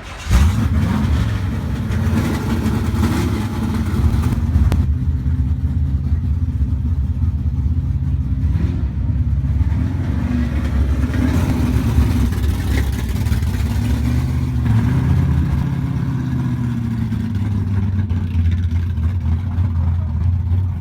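Car engine running loud, starting abruptly just after the start, its pitch rising and falling as it is revved a few times.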